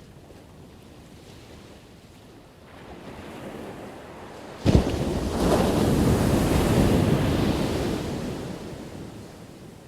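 An ocean wave breaking on the shore: the surf builds, crashes suddenly a little under five seconds in, then rushes up as a loud wash that fades away over the next few seconds.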